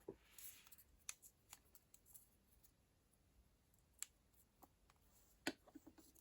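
Quiet handling of paper stationery at a desk: a brief soft paper rustle near the start, then a few scattered light clicks and taps.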